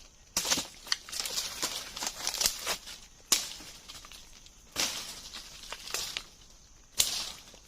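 Irregular rustling and crackling from something being handled or crushed, with four sharp snaps spread through it.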